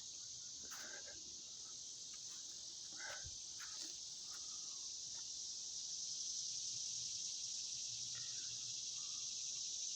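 Steady, high-pitched chorus of insects droning without pause, with a few faint soft knocks and rustles lower down.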